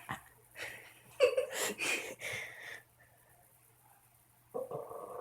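A dog making short, noisy huffs in the first few seconds, then starting a low growl near the end.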